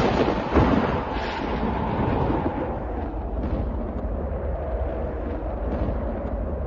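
Thunder: a sharp crack about half a second in, then a long rolling rumble that carries on steadily.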